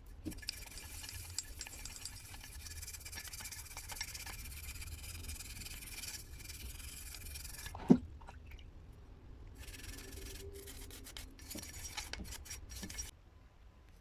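Abrasive rubbing worked by hand on an axe: a steady scratchy hiss for about eight seconds, one sharp knock, then a run of shorter stop-start strokes that end about a second before the close.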